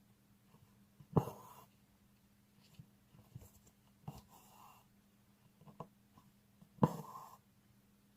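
Hand-embroidery needle popping through fabric stretched tight in a hoop, then thread drawn through it with a short rasp. This happens twice loudly, about a second in and near the end, once more faintly near the middle, with light ticks in between over a faint steady hum.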